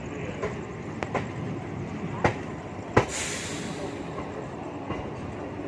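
MEMU train running, heard from inside a coach: a steady rumble with sharp, uneven knocks as the wheels pass over rail joints. The loudest knock comes about three seconds in, followed by a brief hiss.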